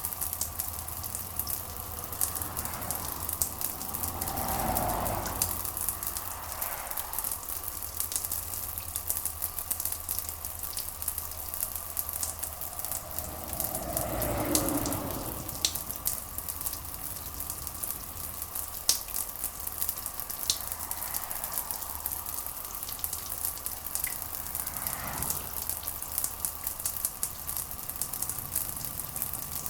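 Steady rain: a dense hiss with many small drop ticks. There are three brief, softer swells, a few seconds in, around the middle and near the end.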